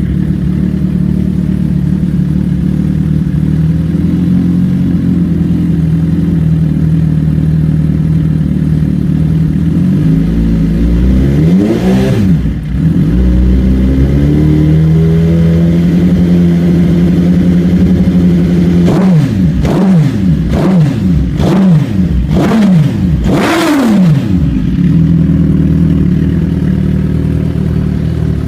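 Suzuki GSX-R1000's inline-four engine with an aftermarket Bodis exhaust idling steadily. It is revved once about halfway through, then blipped several times in quick succession before settling back to idle.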